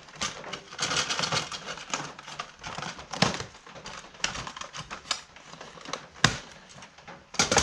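Rat traps and their plastic packaging being handled: a rapid, irregular run of clicks and rustling, with a few sharper knocks about three, six and seven and a half seconds in.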